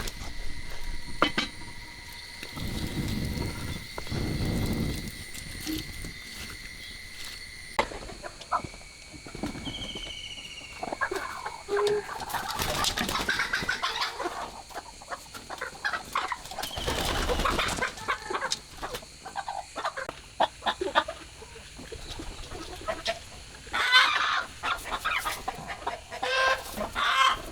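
Chickens clucking in a series of short, irregular bouts.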